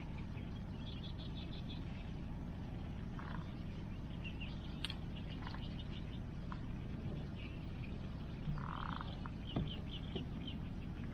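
Wood fire burning over a steady low rush of river water and rain, with a few sharp pops from the fire. Short runs of quick, evenly spaced high clicks come several times.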